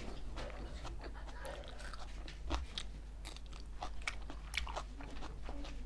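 A person chewing and biting pieces of chicken close to a clip-on microphone: an irregular string of short, sharp mouth clicks and crunches.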